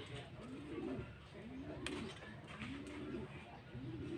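A dove cooing over and over, a low rising-and-falling coo about once a second, with one sharp click about two seconds in.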